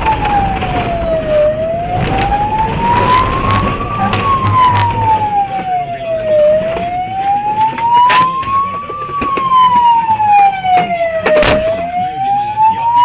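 Emergency vehicle siren wailing, rising and falling slowly with about five seconds per cycle. A second, higher siren joins about halfway through, with a few sharp clicks and knocks over the traffic noise.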